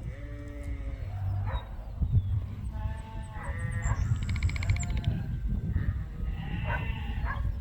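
Sheep bleating several times, with a short rattle of quick, even clicks about four seconds in.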